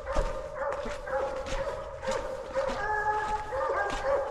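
Coonhounds barking repeatedly, about two barks a second.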